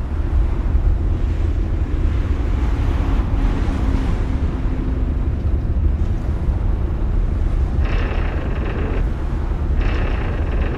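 Truck engine running with a steady low rumble, with a stretch of higher-pitched noise added near the end.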